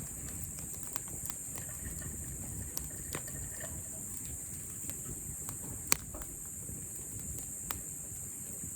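Campfire wood crackling, with scattered pops and one sharp pop about six seconds in, over a steady high hiss.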